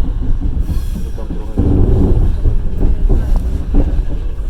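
Passenger train carriage rolling along the track: a steady low rumble with the clack of wheels over rail joints, a few knocks in quick succession in the second half.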